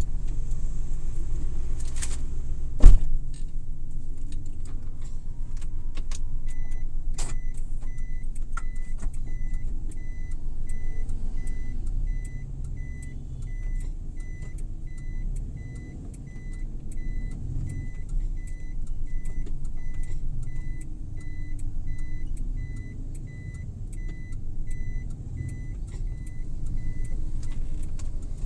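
Cabin sound of a Suzuki Every Wagon (DA64W) driving: steady low engine and road rumble, with a sharp loud thump about three seconds in. From about six seconds in, a regular high-pitched ticking at about two a second, typical of a turn-signal indicator, runs until about a second before the end.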